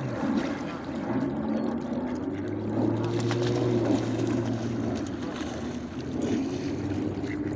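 A steady low motor hum from about two seconds in to about five seconds, with voices around it.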